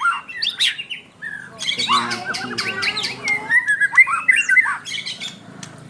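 White-rumped shama in full, vigorous song: a fast run of varied whistles, slurred glides and harsh notes mixed with sharp clicks, with a short pause about a second in.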